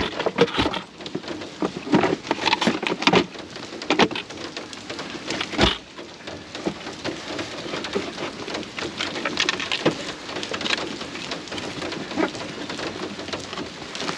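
Rain falling steadily, with many irregular drops tapping close by; one louder tap comes a little before six seconds in.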